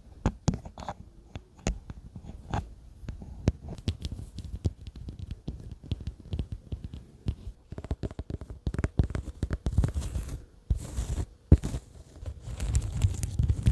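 ASMR trigger tapping: light, irregular taps on objects, coming faster and closer together about eight seconds in, with a couple of short stretches of hiss-like noise in the second half.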